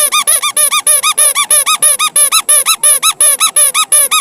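Electronic toy sound: a fast, very even string of short squeaky chirps, each rising then falling in pitch, about six a second.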